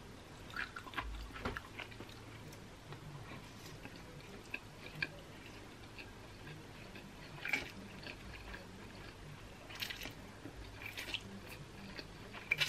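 Eating yakisoba stir-fried noodles: soft wet chewing with small mouth clicks, and a few short slurps as noodles are drawn into the mouth.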